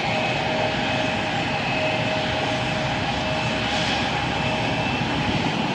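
Bombardier CRJ900 regional jet's twin turbofan engines running at a distance: a steady rushing noise with a steady high whine, the lower whine fading out near the end.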